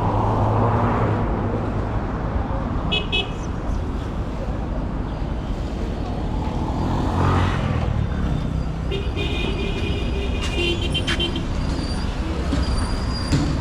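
Street traffic running steadily, with a vehicle passing about halfway through and car horns tooting: a short toot about three seconds in and a longer honk a few seconds later.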